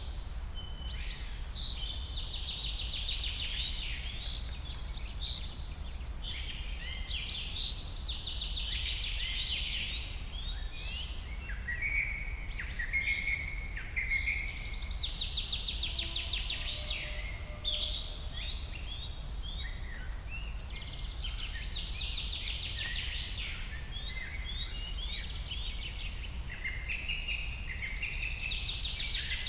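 Several songbirds singing together, a continuous chorus of rapid trills and chirps that keep recurring, over a steady low rumble.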